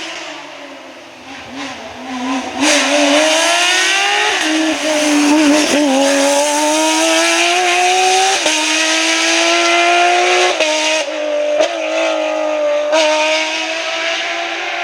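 Rally car engine under hard acceleration, pitch climbing through the revs and stepping at several gear changes. It is fainter for the first couple of seconds, then loud and close.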